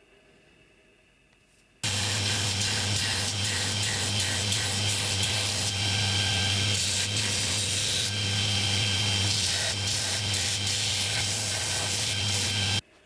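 Electric power tool running: a steady motor hum under a loud, even hiss. It starts abruptly about two seconds in and cuts off just before the end.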